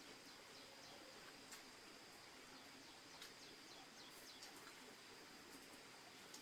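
Near silence: faint outdoor ambience with a thin, steady, high insect tone and a few scattered soft ticks and chirps.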